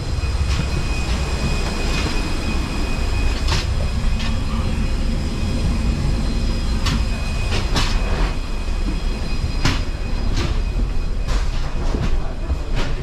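Cabin rumble of an Airbus A320 rolling on its landing gear during taxi, heard from a rear window seat. A steady high engine whine runs through it, and sharp knocks and clunks come every second or so as the wheels cross taxiway joints.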